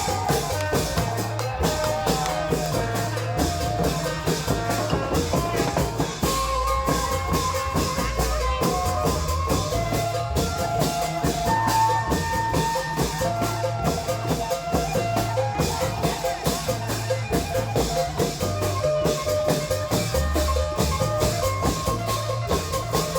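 Isan klong yao (long drum) band playing: fast, dense drumming with a repeating deep drum beat and many quick cymbal-like strikes, and a wavering melody on top.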